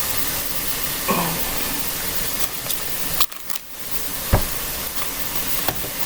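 Food sizzling in a hot cast iron skillet, a steady hiss that dips briefly about three seconds in. A single knock about four seconds in.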